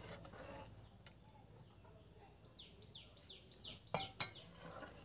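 A bird calling a quick run of about seven short descending chirps, about five a second, starting about halfway through, over faint outdoor background. Two sharp clicks come near the end.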